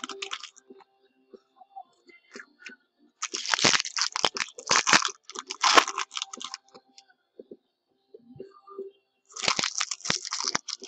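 Foil trading-card packs being torn open and crinkled by hand, in bursts of rustling and tearing about three seconds in and again near the end.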